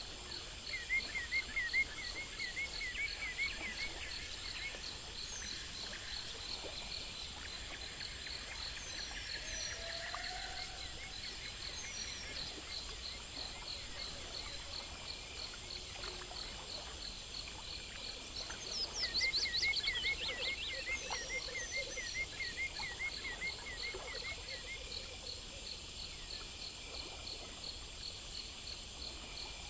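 Night nature ambience: insects chirping in a steady, even pulse throughout. A rapid trilling call sounds about a second in and again from about 19 s, led by a falling sweep, with scattered short high chirps between.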